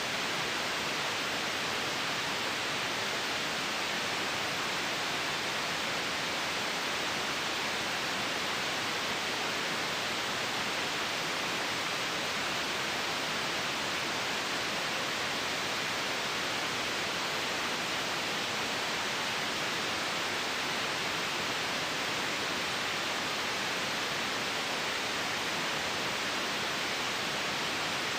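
Continuous, steady white noise: an even hiss, strongest in the upper-middle range, that never changes.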